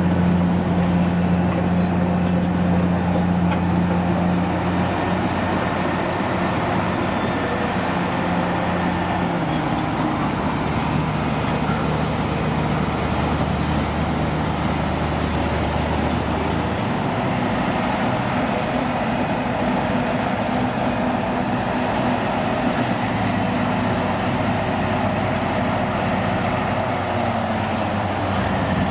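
Diesel engines of old trucks or construction machines running steadily in a low drone. The engine note shifts about nine seconds in and again at about seventeen seconds.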